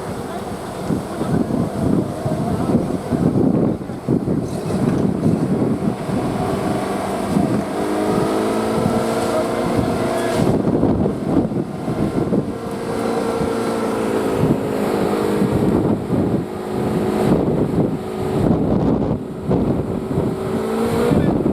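Engine of a self-propelled FH70 155 mm howitzer, the Subaru horizontally-opposed engine, running with its note slowly rising and falling. Wind buffets the microphone.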